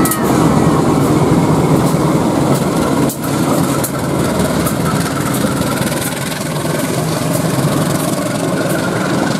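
KAI CC 201 diesel-electric locomotive passing close by with its engine running, followed by its train of passenger coaches rolling past, with sharp wheel clicks on the track.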